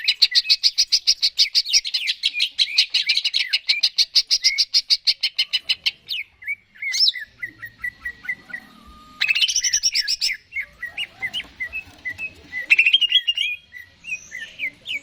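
Green leafbird (cucak ijo) singing: a fast, even trill of high notes for about the first six seconds, then scattered short chirps with another brief rapid burst around the middle.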